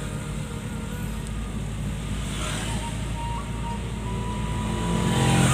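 Car engine and road noise heard from inside the cabin while climbing a steep hill, the engine working and growing louder near the end.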